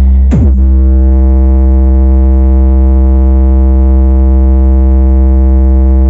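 Electronic music played loud through a Sony FLX9W mini hi-fi system: a held synthesizer chord over heavy deep bass, with a short falling sweep about half a second in.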